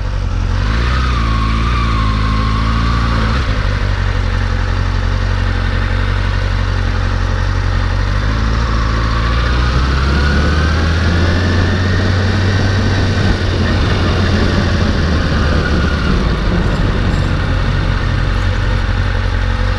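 Motorcycle engine running steadily, its pitch rising about halfway through as it speeds up, then easing back.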